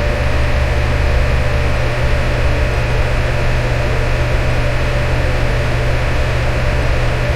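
Electric fan running steadily: an even rushing of air over a low motor hum, with a faint steady tone in the midrange.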